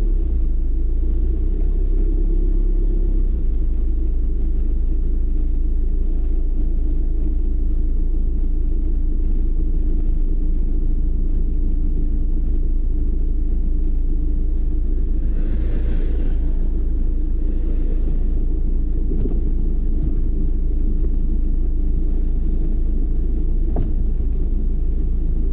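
Steady low rumble of a car being driven, heard from the car, with engine and road noise and a steady hum, and a brief hiss about two-thirds of the way in.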